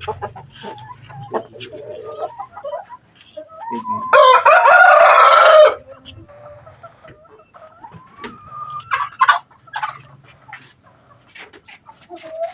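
A game-fowl rooster crows once, loudly, about four seconds in, the crow lasting about a second and a half. Shorter, softer clucks and calls from other chickens come before and after it.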